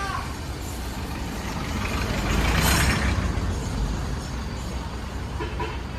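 Heavy vehicle engine running with a steady low rumble, with a rush of noise that swells and fades about midway.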